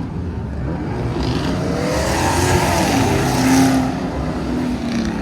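Car engine at full throttle accelerating hard away, its pitch rising and then falling, loudest about three and a half seconds in.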